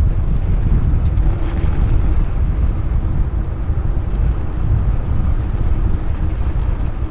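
Wind buffeting a helmet-mounted GoPro's microphone as a bicycle rolls fast along the road: a steady, loud low rumble.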